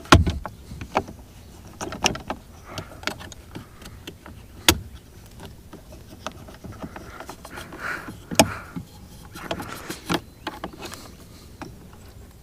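Irregular clicks and knocks of a Mercury outboard remote control's housing, handle and warm-up lever parts being pressed and worked into place by hand, with a few sharper knocks near the start, about five seconds in and about eight seconds in.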